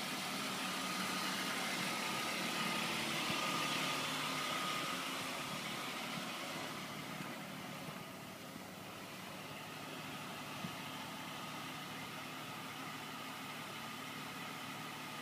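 The BMW E39 530i's straight-six engine idling steadily, under a constant hiss that eases a little about halfway through.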